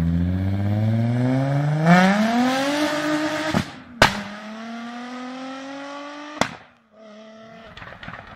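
Mk2 Volkswagen Golf accelerating hard away, its engine note rising steadily through the gear. At about four seconds there is a gear change with a sharp bang, the note climbs again, and a second sharp bang comes shortly before the sound drops away; a fainter engine note follows near the end.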